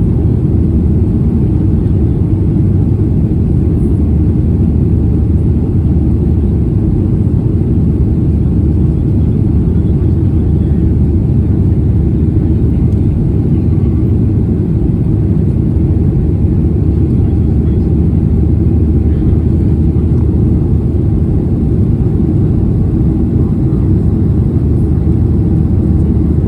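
Airliner cabin noise: the jet engines and airflow make a steady, loud, low rumble.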